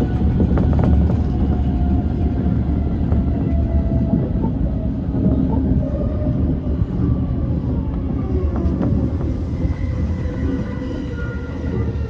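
E235 series electric train running on the rails: a steady low rumble of wheels on track with a motor whine whose pitch falls slowly, as the train slows. A few sharp clicks of wheels over rail joints.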